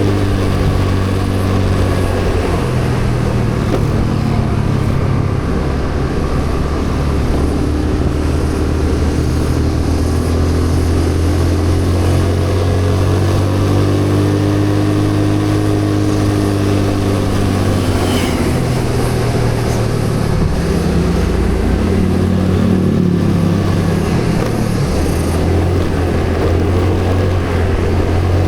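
A motor vehicle's engine running under way, its hum rising and falling in pitch in steps as the speed changes. A short sharp sound stands out about eighteen seconds in.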